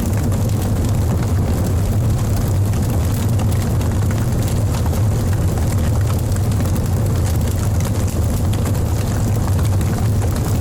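Wood fire burning in a fireplace: a steady low rumble of flame with frequent small crackles and pops from the logs.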